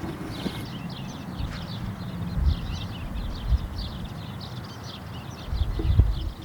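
Many small birds chirping, short high chirps tumbling over one another in quick succession, over a low rumble that swells louder near the end.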